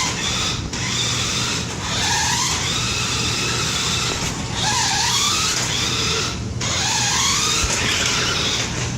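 Toy RC car's electric motor whining, its pitch rising and falling as it is throttled on and off repeatedly, with the tyres scrabbling on concrete.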